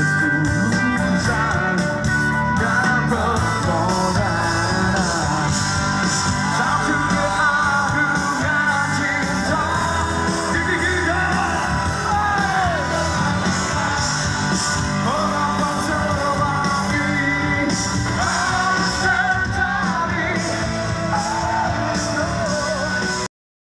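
Live rock band playing, with a lead singer's voice over electric guitar and drums. The sound cuts out completely for a moment near the end.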